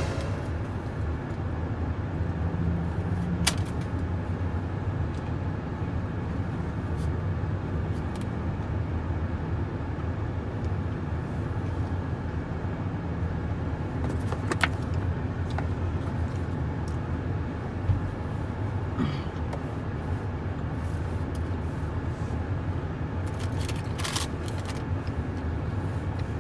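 Steady low rumble of a pickup truck's engine running, heard inside the cab, with a few short sharp clicks now and then.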